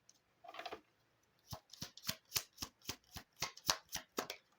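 Oracle cards being shuffled by hand: a soft rustle, then a quick run of sharp card snaps at about four a second.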